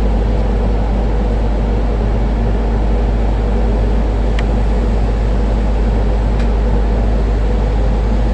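Steady low rumble of a vehicle heard from inside a van's cab, with two faint clicks about four and six seconds in.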